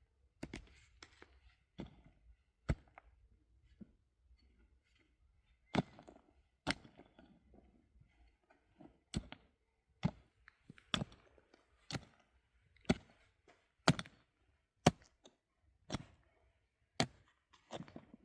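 Hand tool striking hard material in sharp blows. The blows are scattered in the first half, then settle into a steady rhythm of about one a second.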